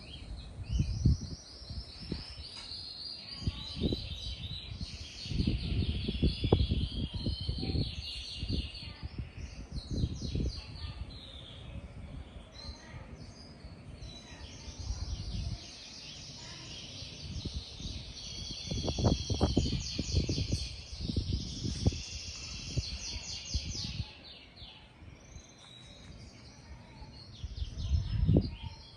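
Small birds chirping, with rapid runs of repeated high notes throughout. They are broken by irregular gusts of wind buffeting the microphone, the loudest of which come around 6, 19–20 and 28 seconds in.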